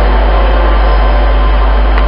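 Train running: a loud, steady rushing noise with a heavy low rumble.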